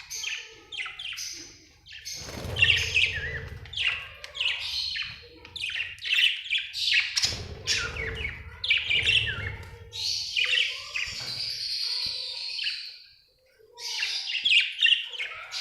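Budgerigars chirping and warbling in a rapid, continuous run of short chirps, with a brief break shortly before the end.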